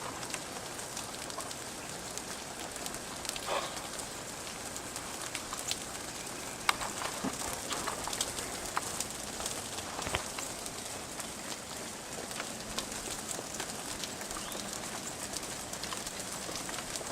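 Freezing rain pattering steadily on iced surfaces, with many small scattered ticks and a few sharper ones. A brief bird call about three and a half seconds in.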